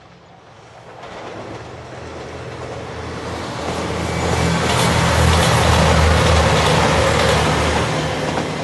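A yellow Anpanman-liveried passenger train approaching and running past, its wheels rumbling on the rails over a low mechanical drone. It grows steadily louder, is loudest a little past halfway as it passes, then begins to fade.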